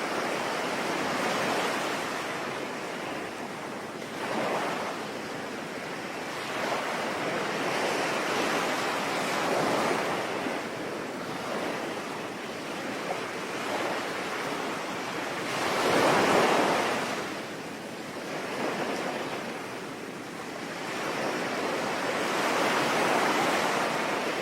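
Sea waves breaking and washing up the shore, swelling and falling back every few seconds, with the biggest surge about two thirds of the way through.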